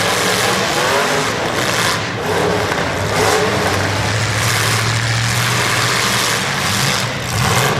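Several demolition derby cars' engines running and revving at once, their pitch rising and falling over a steady low drone, amid a dense, continuous din.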